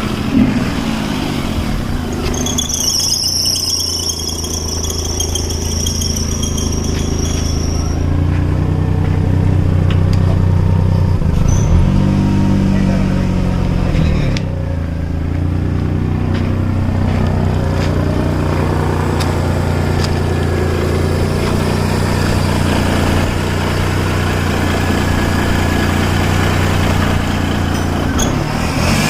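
Hyundai Eon engine running just after a cold start, idling unevenly with one rise and fall in speed about halfway through, and a high-pitched whine for a few seconds near the start. The car has stood for about a year and the oil inside has gone thick.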